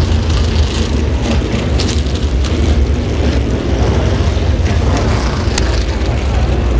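Stock cars running on the circuit, heard as a steady, loud low rumble with no single car standing out.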